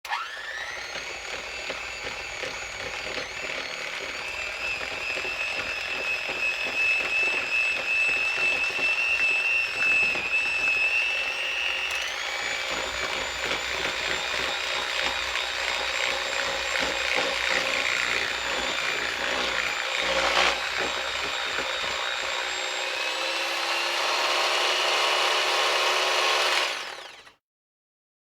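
Electric kitchen hand mixer running steadily, its beaters churning a thick mix of powdered newspaper, white glue and water. The motor whine shifts in pitch about twelve seconds in and cuts off near the end.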